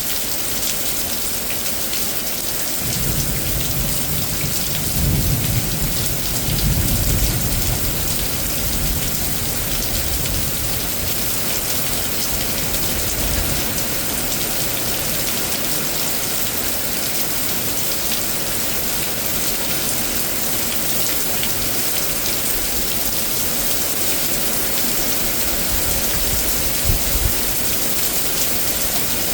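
Heavy thunderstorm rain falling steadily, with a low rumble of thunder from about three to eight seconds in.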